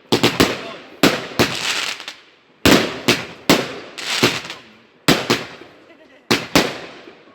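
Fireworks going off: about a dozen sharp bangs at irregular intervals, some in quick pairs, each dying away briefly.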